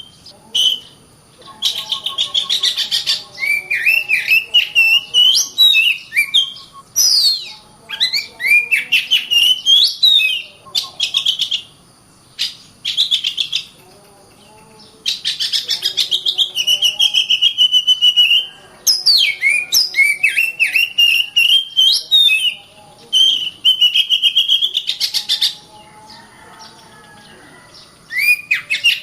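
Oriental magpie-robin (kacer) singing loudly in dense, rapid bursts of chattering notes and gliding whistles, with a few short pauses between phrases.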